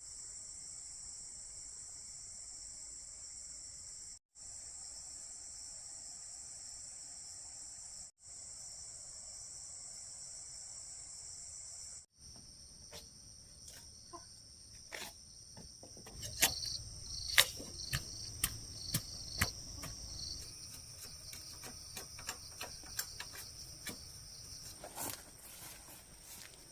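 A steady, high-pitched chorus of crickets and other insects, with three brief dropouts in the first twelve seconds. From about halfway, sharp knocks start over the insects, a quick run of louder ones coming a few seconds later.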